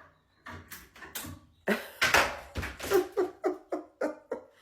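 Parrot vocalizing: a few clicks, then a harsh noisy call about two seconds in, followed by a run of short repeated notes, about four a second.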